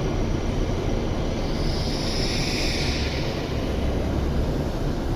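Steady low rumble of a W7-series Shinkansen standing at the platform, with a short hiss about two seconds in.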